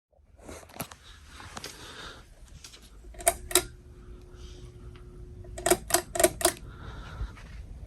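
Sharp mechanical clicks, two close together and then, a couple of seconds later, four in a quick run, over a low steady hum.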